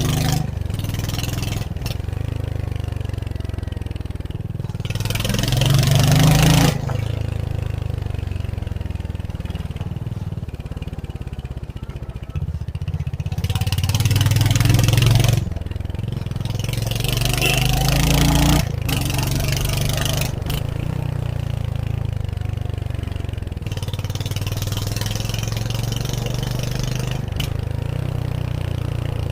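Royal Enfield Hunter 350's 349 cc single-cylinder engine running under way, heard from the rider's seat. The engine swells under throttle a few times and drops off sharply each time the throttle is closed, about a quarter of the way in, halfway, and once more soon after.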